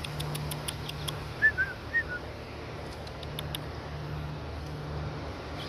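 A small bird chirping: four short high chirps about a second and a half in, over a steady low outdoor hum.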